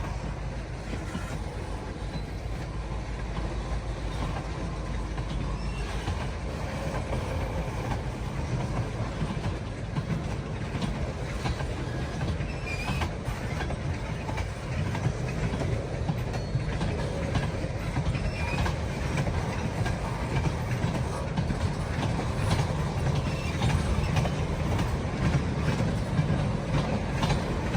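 Freight train rolling past, a steady low rumble of cars with scattered clicks of wheels over the rails, growing slowly louder.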